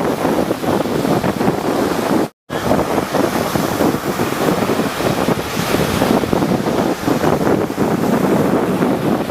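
Rough sea waves surging and breaking, with wind buffeting the microphone. The sound cuts out completely for a split second a little over two seconds in.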